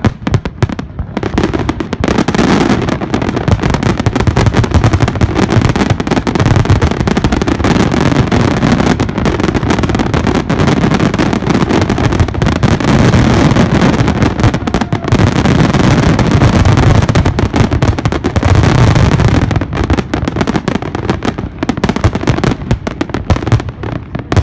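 Fireworks display going off in a dense, rapid barrage of bangs and crackles that builds about two seconds in and thins out near the end.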